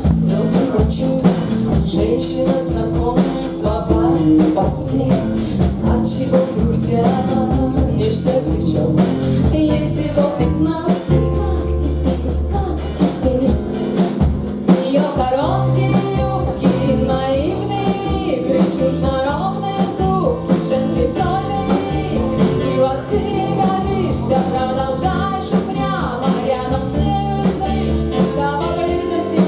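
Live rock band playing a song with drum kit and guitar; a lead vocal comes in about halfway through.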